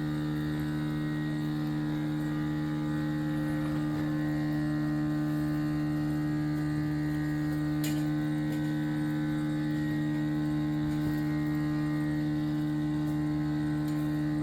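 Steady machine hum with a strong low pitch and many overtones, unchanging throughout; a single faint click about eight seconds in.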